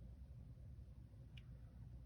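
Near silence: quiet room tone with a low hum and a single faint tick about midway.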